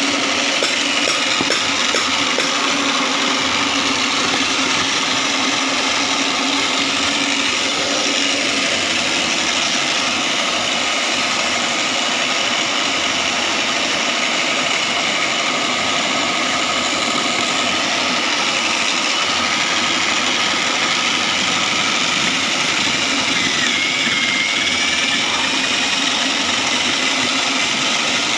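Homemade foam-shredding machine running steadily with a loud, even mechanical drone.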